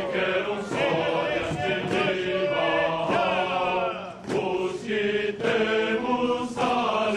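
A choir chanting: sung voices moving from note to note over held lower notes.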